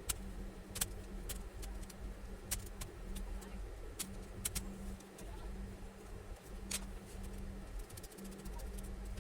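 Scattered sharp clicks and taps, a dozen or so at irregular intervals, over a steady low hum.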